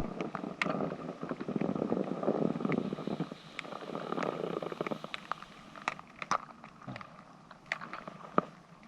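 Scraping and crunching in snow: a rough, rumbling scrape for about five seconds, then scattered short crunches.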